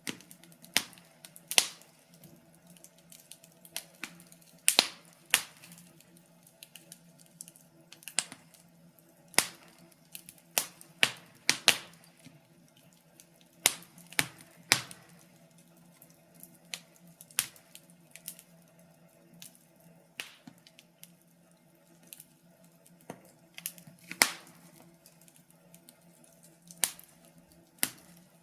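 Wood fire crackling: irregular sharp pops and snaps at uneven intervals, some loud and some faint, over a faint steady hum.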